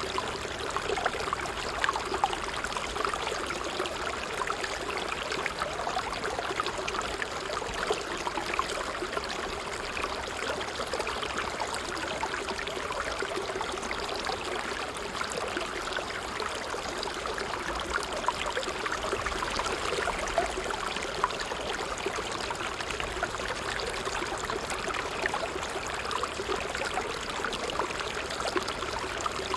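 Water trickling steadily with fine, continuous splashing and burbling, a small stream or runnel of water flowing.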